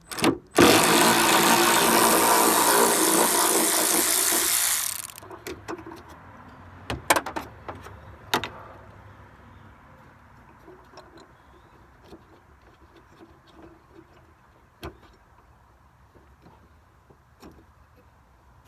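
A handheld power tool runs loud and steady for about four seconds, driving a fender bolt. A few sharp clicks follow, then quieter tool-handling rattles.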